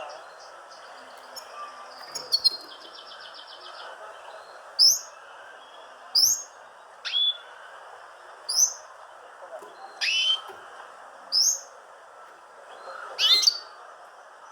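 Small birds chirping: a short, high, rising chirp repeated about every second and a half, with a buzzy, rattling trill near the start, over a steady background hiss.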